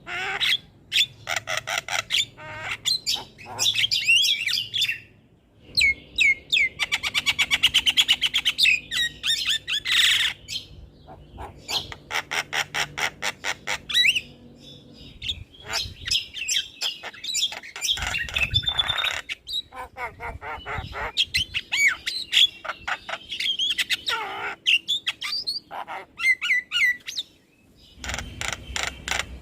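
Javan myna singing: long chattering runs of rapid repeated notes, trills, harsh squawks and whistles, pausing briefly twice.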